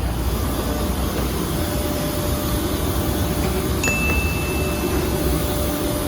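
Steady air and ventilation noise in a Boeing 737-800 cabin during boarding. About four seconds in, a single high cabin chime rings and holds for about a second.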